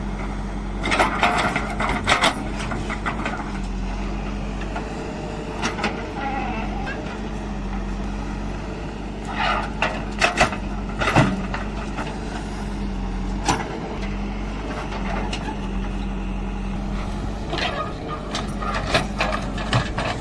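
Tractor diesel engine running steadily at a constant speed, with brief louder noises over it a few times.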